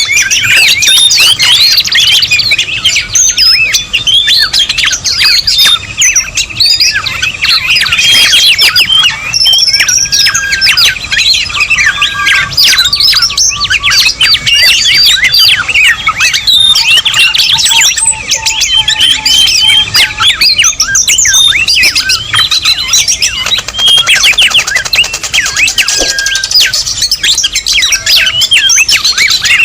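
Dense, unbroken mix of many overlapping bird chirps, squawks and trills, several birds calling at once: a busy bird lure-call compilation recording.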